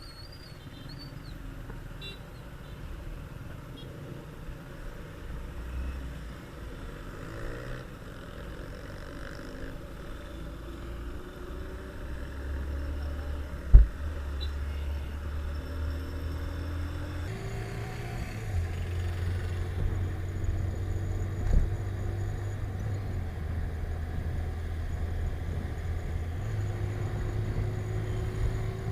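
Hero Honda Glamour 125cc single-cylinder motorcycle running along the road, its low engine hum shifting up and down in pitch in steps. Two sharp knocks, the louder one about halfway through and another about two-thirds in.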